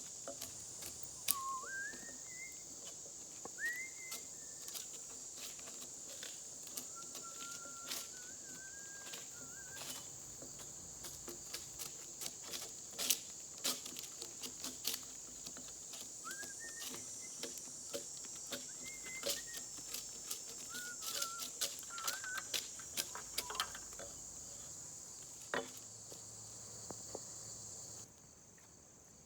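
Steady, shrill chorus of insects such as crickets, with many scattered sharp clicks and taps and a few short rising whistled calls. The insect sound cuts off suddenly near the end.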